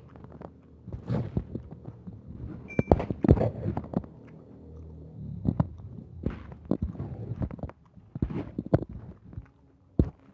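A person chewing and eating roast chicken close to the microphone: irregular wet smacks and clicks of the mouth and food, with a low rumble between them.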